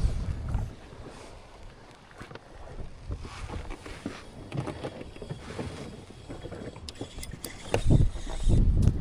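Gusty wind buffeting the microphone, strong at the start, easing, then gusting hard again near the end, with a few light clicks shortly before.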